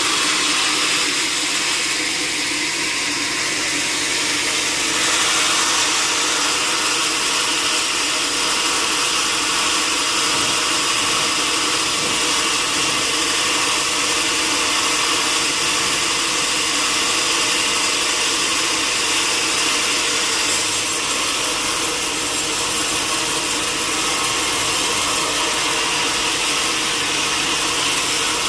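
Sawmill saw cutting through timber, running steadily at an even level with a high hiss and a few held tones beneath it.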